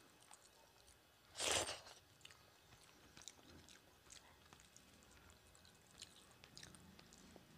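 Faint close-up chewing of rice and curry, with scattered small wet mouth clicks. About a second and a half in comes one short, louder hiss of noise.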